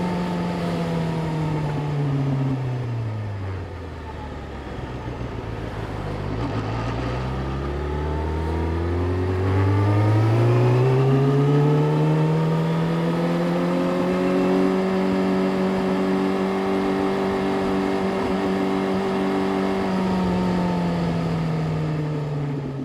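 Yamaha YZF-R6 inline-four motorcycle engine. Its pitch sinks over the first few seconds as the revs drop off, climbs back as it pulls away, then holds at a steady cruise with a slight drop near the end.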